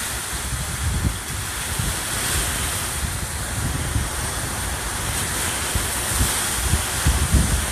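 Hurricane wind blowing hard, a steady hiss with irregular low rumbling gusts buffeting the microphone.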